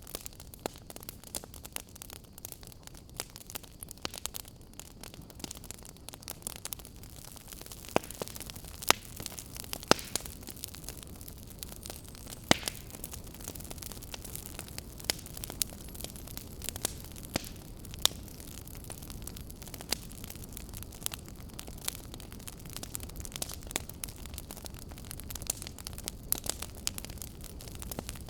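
Fire crackling: irregular sharp pops and snaps, a few of them louder, over a steady low rushing hiss.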